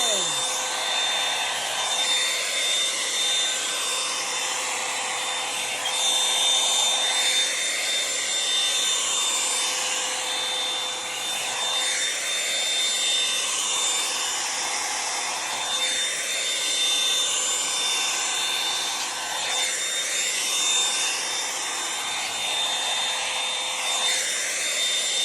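Revlon One-Step hair dryer brush running with a steady motor whine and a rush of air. The rushing rises and falls about every two seconds as the brush is worked through hair.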